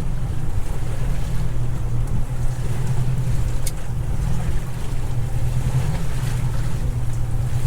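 Small boat under way in rough, windy seas: a steady low rumble of the motor and wind on the microphone over the wash of the water, with one sharp click a little past halfway.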